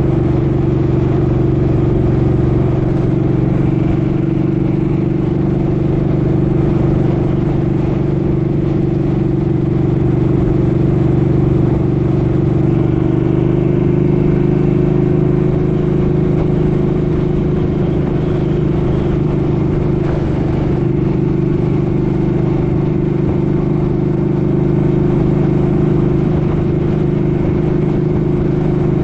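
Suzuki Boulevard M50's V-twin engine running steadily under way, with a step in engine pitch about 13 seconds in, over a low rumble of wind on the microphone.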